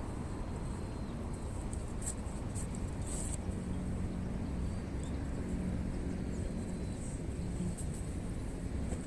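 Wood fire crackling with scattered sharp pops over a low rumble, and a steady low hum from about three and a half seconds in.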